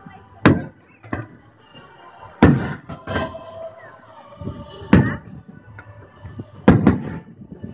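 Aerial firework shells bursting overhead: about four sharp booms with a few lighter pops between them, each trailing off in an echo.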